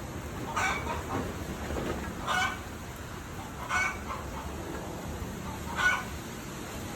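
Strong wind blowing steadily, with four short bird calls spaced a second and a half to two seconds apart, the last one the loudest.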